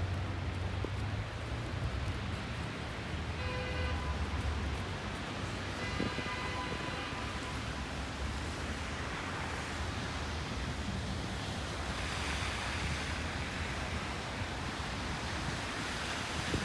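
Wind of a snowstorm blowing against the microphone over a steady low city rumble. Two short pitched tones come through about 3.5 and 6 seconds in, and a hissing gust swells up in the last few seconds.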